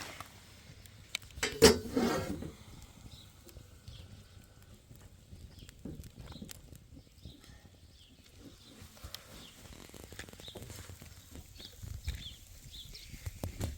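A farm animal bleats once, loudly and with a wavering pitch, about a second and a half in, followed by faint scattered knocks and clicks.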